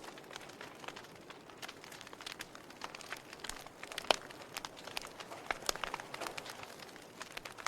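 Wood fire burning with irregular crackles and sharp pops over a soft steady hiss; one pop about four seconds in is the loudest.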